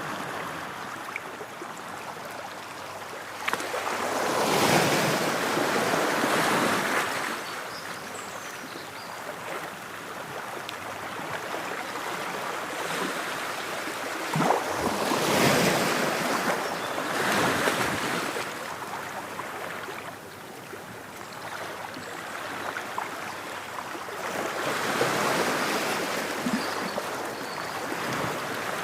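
Ocean waves breaking on a shore: three big surges, each swelling and fading over a few seconds, about ten seconds apart, over a steady wash of surf.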